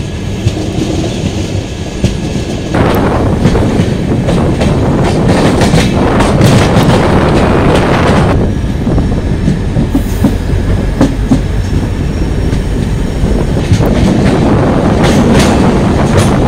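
Train wheels clattering over rail joints and points, with many irregular clicks, as the train crosses from one track to another. The noise steps up a little under three seconds in.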